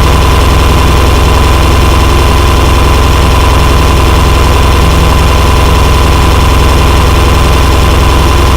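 Harsh noise music: a loud, dense wall of distorted noise over a heavy, rapidly pulsing low buzz and a steady high tone, cutting in abruptly.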